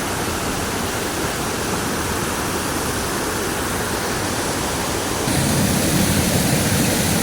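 Steady rush of flowing river water. It gets louder and fuller about five seconds in.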